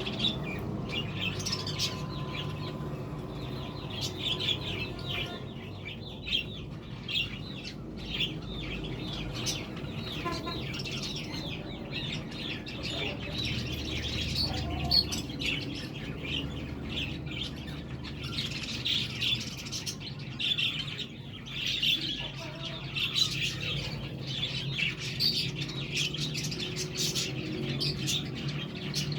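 Budgerigars chirping and chattering: a continuous stream of short, high chirps from several birds, over a steady low hum.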